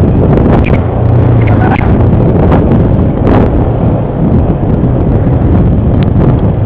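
ATV engine running while riding over rough terrain, loud and steady, with wind buffeting the microphone.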